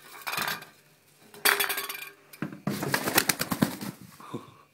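A small toy clinking and clattering on a hard surface as an African grey parrot fetches it, in three bursts of rapid clicks; the longest, about a second long, comes past the middle.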